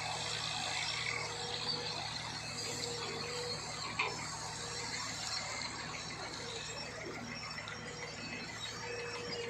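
A heavy truck's engine running steadily with a low hum, and a single sharp click about four seconds in.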